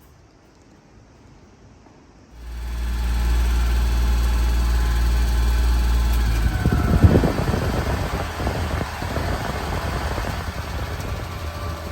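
Small three-cylinder engine of a 1993 Suzuki Carry mini dump truck coming in suddenly about two seconds in and running steadily at idle. About halfway through it turns louder and rougher for a couple of seconds, with one sharp knock, then settles back to a steady idle.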